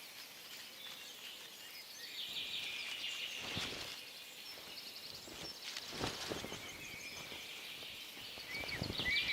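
Forest birdsong: small birds chirping and trilling in quick high notes, thickest a couple of seconds in and again near the end, with a few soft rustles.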